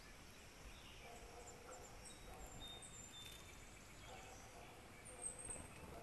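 Faint, scattered high bird chirps over quiet outdoor background noise, with one louder chirp about five seconds in.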